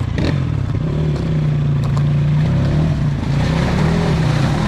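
Enduro motorcycle engine running at fairly steady low revs, with a few light knocks.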